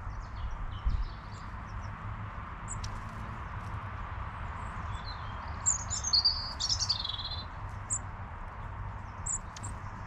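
Small songbirds chirping, with a louder warbling run of notes a little after halfway. A steady low hum runs underneath, and there is a low thump about a second in.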